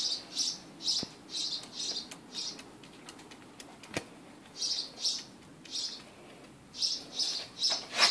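A bird chirping: short high chirps about two a second, in runs separated by pauses, with a couple of faint sharp clicks in between.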